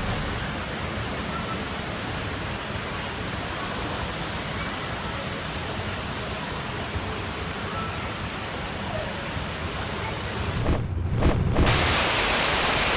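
Steady rushing noise with no clear tone or rhythm. About 11 s in it breaks off and gives way to a louder, brighter hiss.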